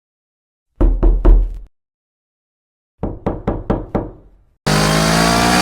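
A series of sharp knocks: three quick knocks, a pause, then five more. Near the end a motorcycle engine under way cuts in abruptly, running steadily with its pitch slowly rising.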